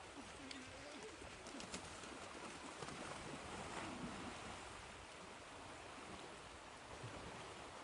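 Ocean surf washing steadily, with a few faint, low bird calls in the first half.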